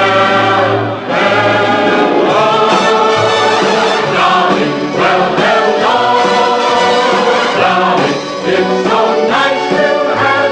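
Choir singing held notes over an orchestra, part of a show-tune style theme song.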